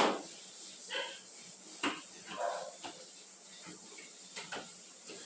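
Scattered clinks and knocks of objects being picked up and set down while a refrigerator is cleaned: a sharp knock at the start, then a handful of lighter clatters a second or so apart.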